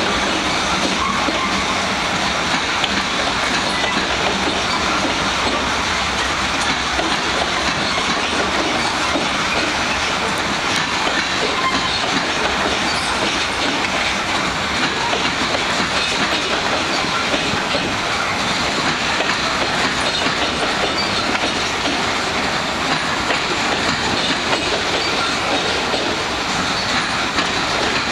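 Freight train of gondola cars rolling past: steady, unbroken noise of steel wheels running on the rails.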